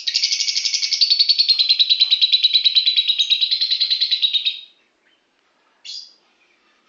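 A lovebird singing one long, rapid, chattering trill lasting about four and a half seconds, easing slightly down in pitch, followed by a single short chirp.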